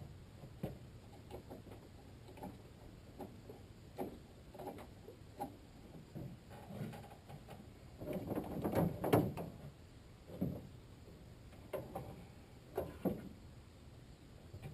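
Irregular knocks and clicks of handling work, with a louder burst of clattering about eight to nine and a half seconds in.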